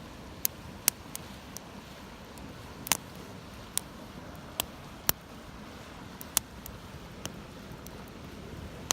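Wood campfire crackling: irregular sharp pops, roughly one a second, over a steady low noise of the burning fire.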